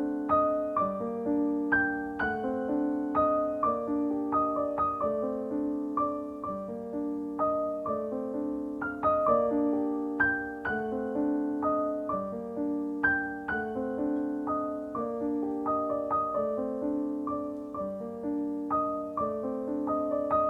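Background piano music: a gentle repeating piano figure with evenly spaced notes.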